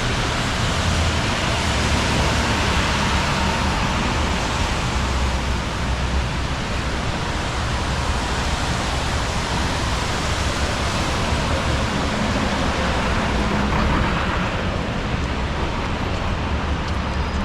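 Steady rain and wet city traffic: an even hiss over a low rumble of vehicles, with a couple of slow swells as cars pass on wet pavement.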